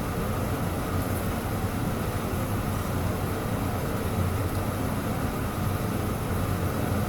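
Steady low hum and rumble with no distinct events, like a running fan or motor.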